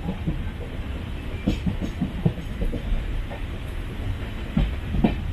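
Passenger train running along the track: a steady low rumble with irregular clicks and knocks from the wheels on the rails.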